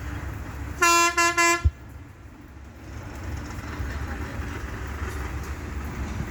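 A vehicle horn sounding three short honks in quick succession, over a steady low rumble.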